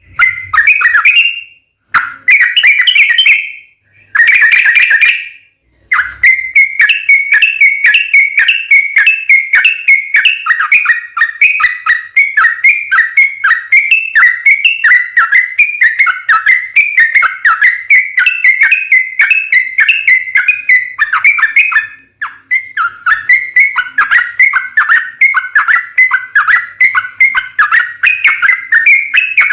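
Sooty-headed bulbul song. Three short bursts come first, then a long, quick, unbroken run of chattering notes, the long rapid 'ropel' fighting song. The run breaks off briefly near the end, then resumes.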